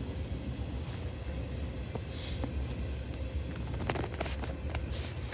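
Empty tank cars of a freight oil train rolling past: a steady low rumble of wheels on rail, with a few light clicks near the end.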